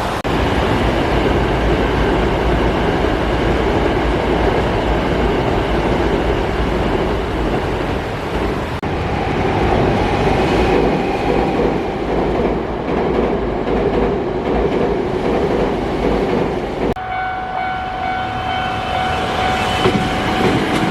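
Hankyu Kobe Line electric train running on the track, a steady rumble of wheels on rails. The sound changes abruptly twice, and in the last few seconds a steady high tone rings over it.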